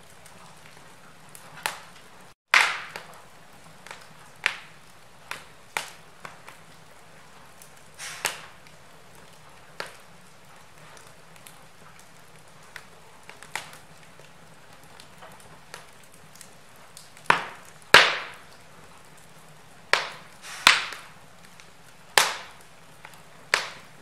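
Wood fire burning in a fireplace, crackling with irregular sharp pops over a soft hiss. The loudest pops come about two seconds in and near eighteen seconds in, and the sound drops out for an instant just before the first of them.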